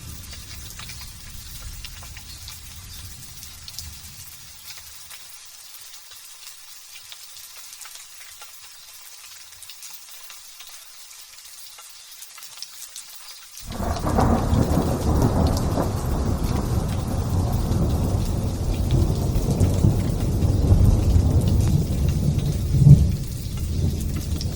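Light drizzle pattering while a thunder rumble dies away over the first few seconds. About 14 seconds in, a loud thunderclap breaks suddenly and rolls on as deep rumbling to the end, with a sharper crack near the end.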